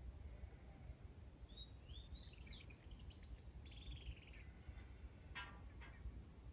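Faint bird calls: a few short rising chirps and a quick trill in the middle, then a couple of brief buzzy notes, over a low steady rumble.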